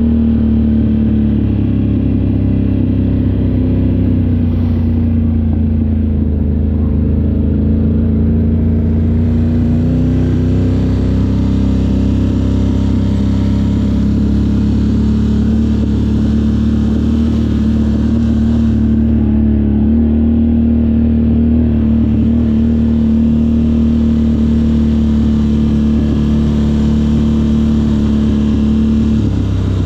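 Off-road vehicle engine running loudly and steadily, its pitch drifting gently up and down.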